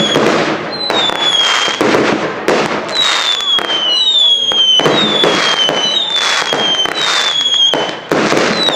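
Firework display with a rapid string of whistling fireworks: one whistle after another, about one a second, each falling slightly in pitch, over a steady run of cracks and bangs.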